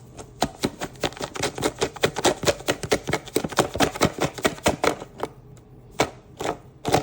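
Salt being tapped and shaken out of its container onto raw beef: rapid, irregular clicking, several clicks a second for about five seconds, then a few separate clicks near the end.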